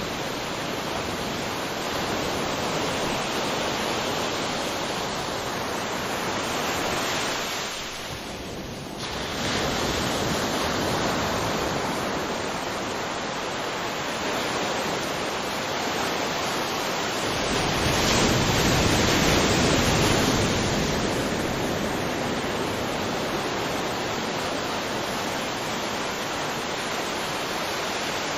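Ocean surf washing on a beach: a steady rush of waves that dips briefly about eight seconds in and swells louder a little past halfway through.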